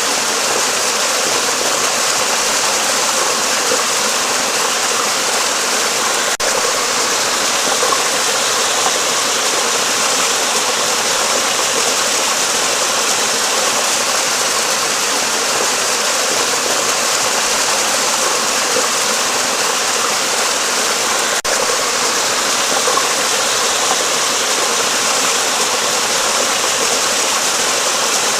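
Steady rush of flowing stream water, a hiss strongest in the high end, broken by two very brief dropouts, about six seconds in and about twenty-one seconds in.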